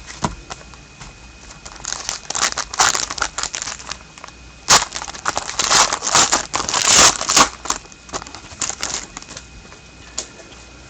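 Foil trading-card pack wrapper being torn open and crinkled, with the cards sliding and shuffling in the hands, in irregular crackling bursts.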